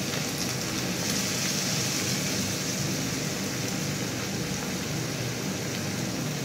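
Chopped onion and garlic sizzling steadily in oil in a frying pan.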